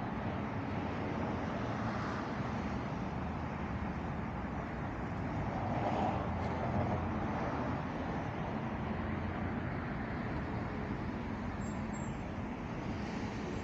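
Steady road traffic noise, a continuous hum of passing cars.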